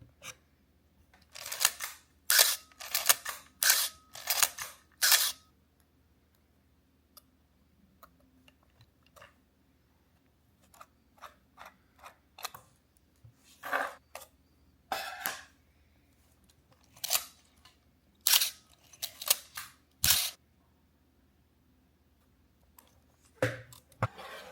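Canon AE-1 35 mm SLR being worked by hand: a series of sharp mechanical clicks and clacks from the shutter and mirror, in bursts with pauses between them. In the first bursts a faint steady squeak tone runs alongside the clicks.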